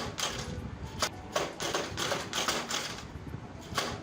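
Front shock absorber of a 125cc motorcycle rattling and clacking in a quick, uneven run of knocks, several a second. The mechanic puts it down to the fork springs having gone soft and loose.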